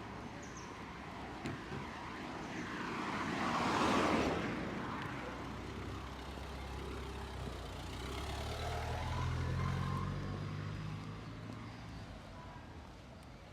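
A car passing on the street, its noise swelling to a peak about four seconds in and then fading. A second vehicle's low engine hum follows from about eight to eleven seconds in.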